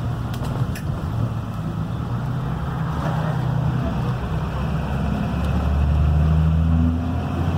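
Cummins B6.7 diesel engine of a Blue Bird Vision school bus running under way. Its low note steps in pitch and grows louder about five seconds in as it pulls harder.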